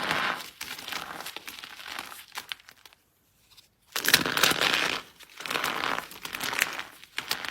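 Dry soap crunching and crumbling in a run of crisp, crackly strokes, with a second of silence a little past the middle before the strokes resume.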